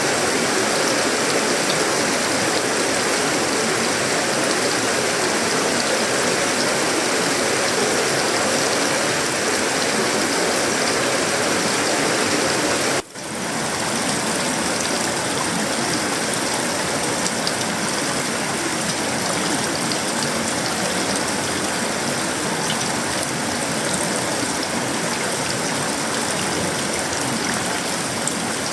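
Heavy tropical rain falling on a sheet-metal roof, wood and leaves: a steady, dense hiss. It drops out for an instant about halfway through, then carries on slightly quieter.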